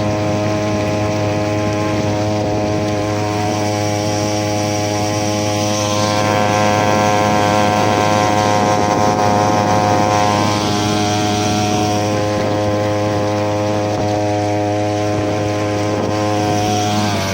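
Small 3 hp outboard motor running steadily at constant throttle, pushing the boat along, its pitch holding even and a little louder for a few seconds in the middle.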